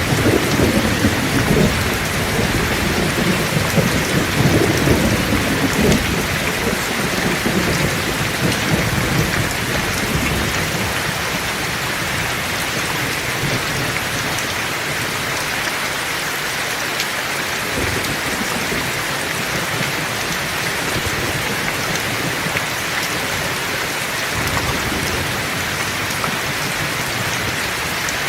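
Heavy rain falling steadily, with a long roll of thunder rumbling in the first few seconds and dying away.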